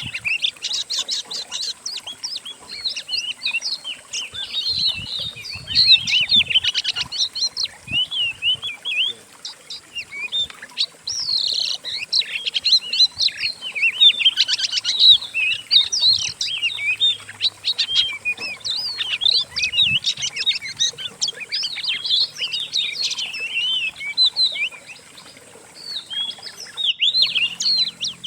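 Dense, unbroken songbird chatter from several birds' songs layered into one masteran lure track: fast chirps, trills and whistles overlapping, with a brief break near the end. It is meant to provoke a captive oriental magpie-robin into answering.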